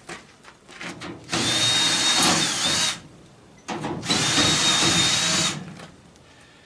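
Power drill run in two bursts of about a second and a half each, with a steady high whine, taking out the fasteners on the top of a furnace's sheet-metal cabinet.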